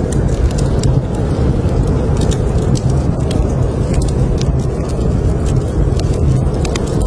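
Blizzard wind rumbling steadily, with a wood fire in a fireplace crackling: frequent small sharp pops and snaps over the low roar.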